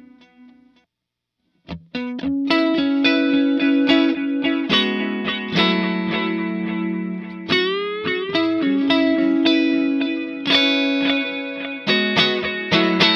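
Electric guitar (Fender Stratocaster) played through an overdrive, a Sonicake Sonic Ambience delay and reverb pedal and a Vox AC30 amp. A string of delay repeats dies away at the start and there is a short silence. Then picked notes and chords ring out with echoing repeats, with bent notes near the middle.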